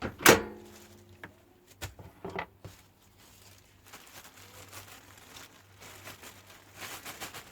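A loud sharp knock with a short ringing tail about a quarter second in, followed by a few lighter clicks and faint rustling handling noises over a steady low hum.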